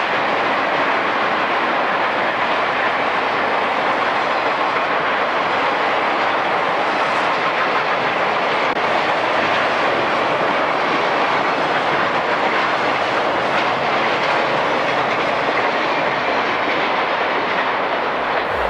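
Freight train cars rolling past at close range, a steady rumble of wheels on rail with the clack of wheels over rail joints.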